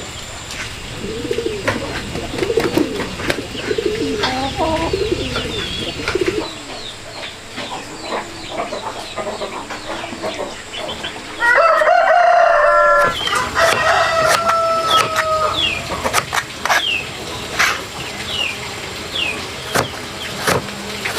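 A rooster crowing about halfway through, the loudest sound, with a second long call right after it. Hens cluck earlier on, and small birds chirp throughout among scattered short knocks.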